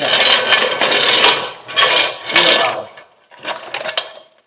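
Rattling, scraping mechanical noise from car-lifting gear being worked by hand. It comes in three long strokes of about a second each.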